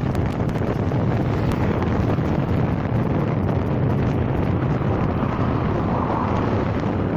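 Steady wind buffeting the microphone, a constant low rumble.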